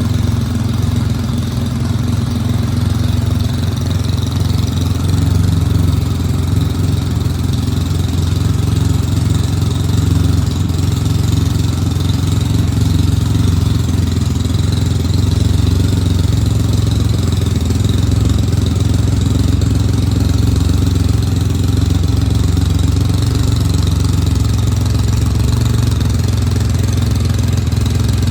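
Triumph Rocket III motorcycle's inline three-cylinder engine idling steadily.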